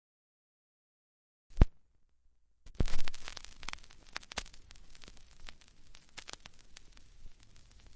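Dead silence, then a single thump about a second and a half in. Near three seconds in, a vinyl record's surface noise begins: a steady hiss with scattered crackles and pops, the stylus riding the groove before the music starts.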